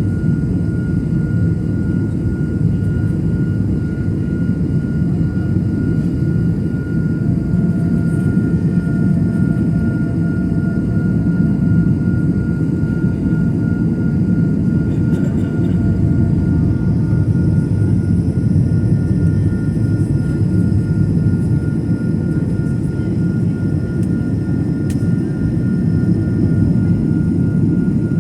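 Airliner engines and rushing air heard from inside the passenger cabin: a steady, loud low rumble with a faint steady high whine above it.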